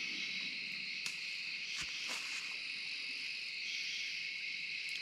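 Steady insect chorus, several high trilling bands sounding together without a break, with a few faint ticks.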